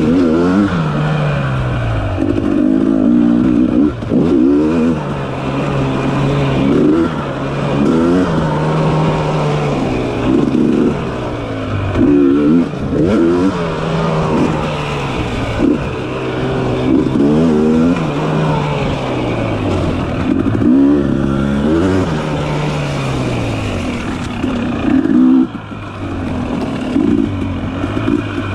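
Dirt bike engine revving up and falling back over and over as the rider works the throttle and shifts along tight singletrack, the pitch climbing and dropping about every one to two seconds with short lifts off the throttle.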